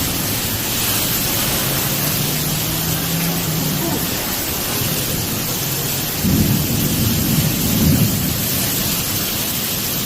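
Heavy rain and wind noise in a severe thunderstorm, steady throughout, with a louder low rumble lasting about two seconds starting about six seconds in.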